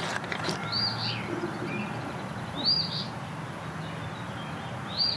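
A small bird calling: three short chirps, each rising then falling in pitch, about two seconds apart. A few faint clicks in the first moment.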